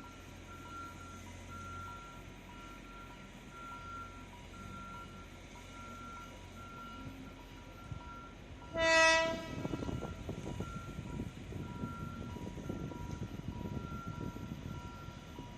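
Alishan Forest Railway train sounds one short horn blast about nine seconds in. It is followed by the low rumble and clatter of the train rolling into the station. A faint, even beeping repeats about once a second throughout.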